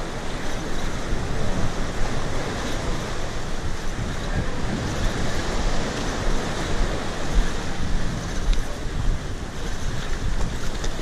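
Steady wind buffeting the microphone over the wash of waves breaking against the jetty's rocks.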